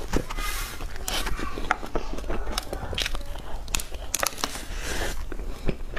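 Biting into and chewing cream puffs close to the microphone: a steady stream of small crackles and sharp clicks.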